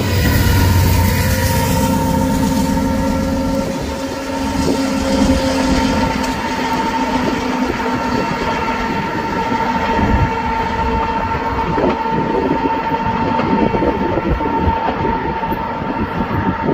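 Freight train of loaded covered hopper cars rolling past, wheels clattering over the rails, with a steady high-pitched squeal throughout and lower tones that fade out about six seconds in.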